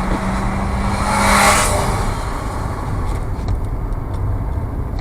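Steady road and engine rumble of a moving car, heard from inside the cabin. A rushing swell of noise rises and fades, peaking about a second and a half in.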